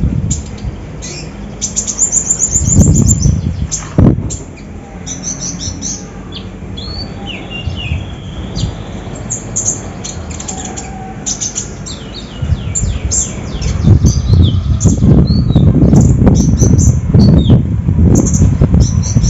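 A konin songbird singing in rapid bursts of short, high chirps and quick note runs. From about two-thirds of the way in, a loud low rumbling noise lies under the song and is the loudest sound.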